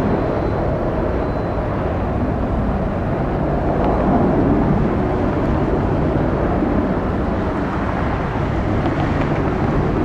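Jet aircraft engines at high power, heard as a steady loud rumble that swells slightly about four seconds in.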